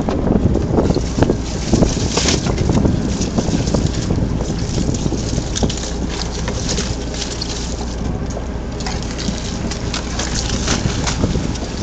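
Wind buffeting the microphone over a steady low rumble, with many scattered knocks and clatters.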